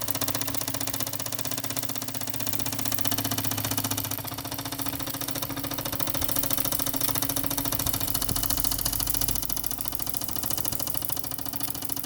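Fleischmann 120/1 toy live steam engine, an oscillating (wobbler) single-cylinder type, running at speed with a rapid, even beat.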